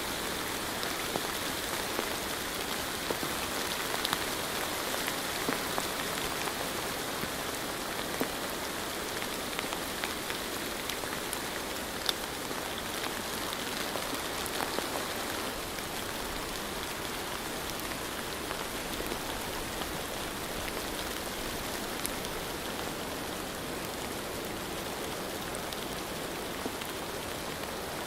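Steady rain against a window, an even hiss dotted with sharper ticks of individual drops, easing slightly about halfway through.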